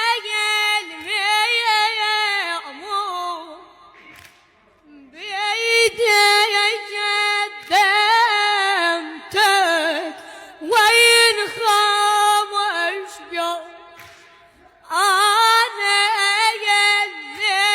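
Unaccompanied singing of an Arabic religious qasida: a high voice holding long, wavering melodic phrases, with short breaks about four and fourteen seconds in.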